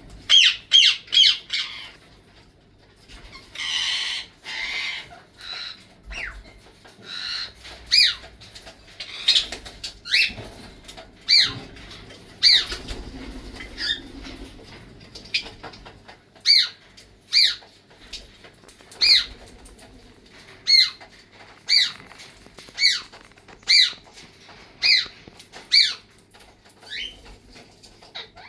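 Pet parrots calling: short, sharp screeches that slide down in pitch, repeated about once a second, with a quick run of four at the start and some rougher chatter a few seconds in.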